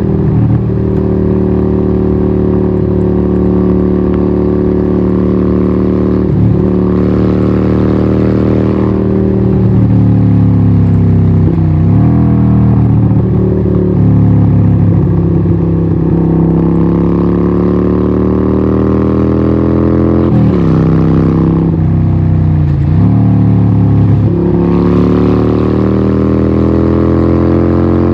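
Harley-Davidson 1200 Nightster's Evolution V-twin running through a Vance & Hines exhaust while riding. The engine note dips sharply several times and climbs gradually again in between.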